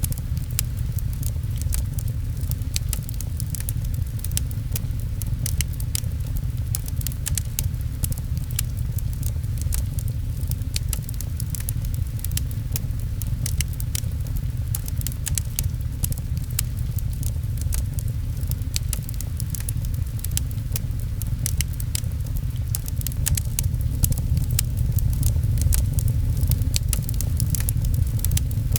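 Fireplace crackling, with frequent sharp pops over a steady low rumble of rain.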